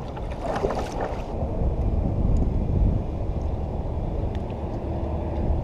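Steady low rumble of wind on the microphone mixed with distant engine noise, with a brief hiss in the first second.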